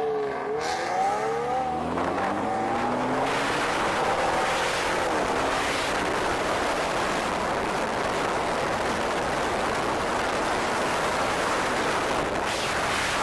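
Car engine revving, its pitch rising and falling in the first couple of seconds and dipping once more about five seconds in, then giving way to a steady rushing noise of wind and road.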